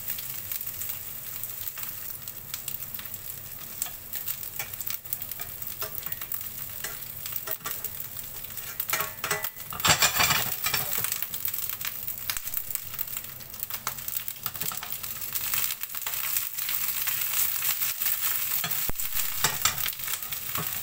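Halved Brussels sprouts sizzling in a nonstick frying pan as they are turned over, with utensils clicking and scraping against the pan. The sizzle swells louder for a moment about ten seconds in.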